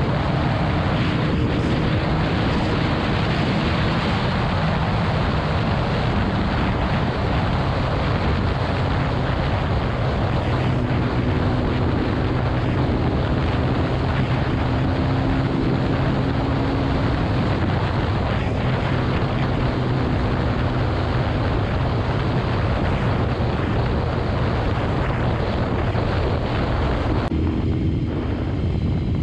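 Motorcycle at highway speed: heavy wind rush over the microphone with a steady engine drone underneath. The wind noise eases off near the end.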